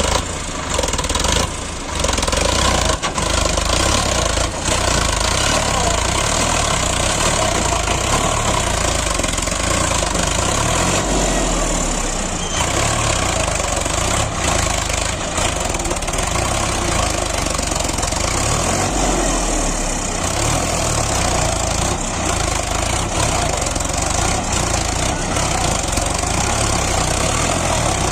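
A Sonalika DI 745 tractor's diesel engine running steadily, with a few short knocks in the first few seconds.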